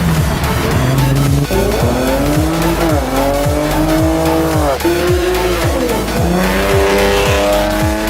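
Car engine revving hard again and again, the pitch climbing and dropping every second or two, over music with a heavy, evenly pounding bass beat.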